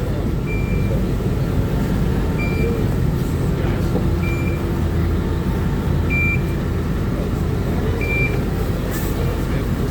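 A short, high electronic beep repeating about every two seconds over a steady rumble of road traffic.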